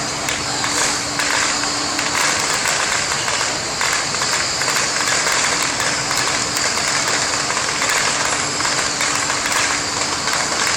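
Strings of firecrackers going off, a continuous dense crackle of rapid sharp pops, with a faint steady hum underneath.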